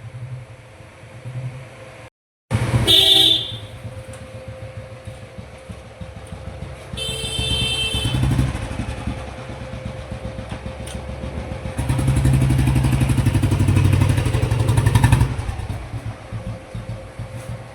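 An old cast-iron Royal Enfield Bullet 350's single-cylinder engine running. Its horn sounds briefly about three seconds in and again around eight seconds. The engine revs up between about twelve and fifteen seconds, then settles.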